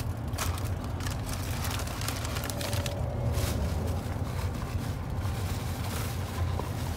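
Steady low rumble of a car engine idling, with scattered small clicks and rustles on top.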